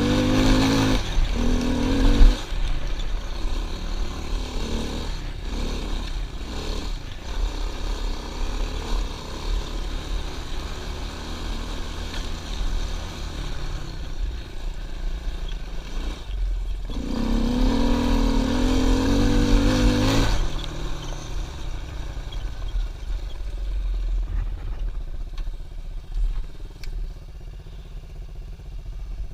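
Pit bike engine running under a rider, revving up hard near the start and again about two-thirds of the way through, with a steady low rumble underneath.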